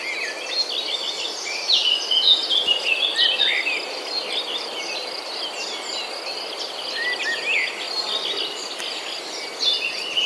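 Wild birds chirping and twittering, many short quick calls overlapping continuously, a few louder notes standing out, over a steady high hiss.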